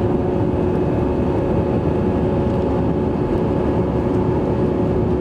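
Airbus A321 jet engines and rushing air heard inside the passenger cabin during the climb after takeoff: a loud, even roar with a steady hum.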